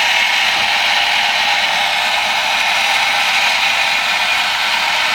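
Small electric motor and plastic gears of a toy's motorized backhoe whirring steadily as the backhoe operates.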